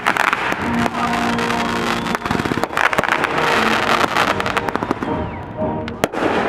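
Fireworks going off in rapid succession, many bangs and crackles close together, thinning out near the end.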